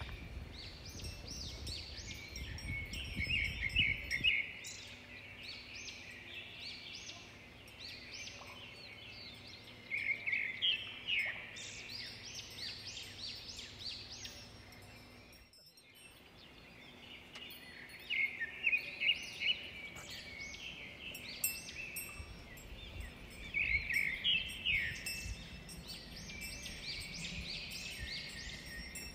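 Wild birds calling outdoors in several bursts of rapid, high chirping notes, over steady outdoor background noise. A low rumble sits under the first few seconds, and the sound drops out briefly about halfway through.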